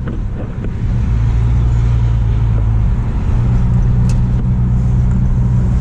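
Car engine and road noise heard inside the cabin while driving, a steady low drone, with a brief click about four seconds in.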